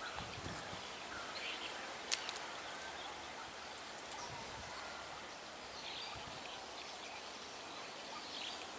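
Quiet outdoor ambience: a steady high insect whine with a few faint chirps, and a single sharp click about two seconds in.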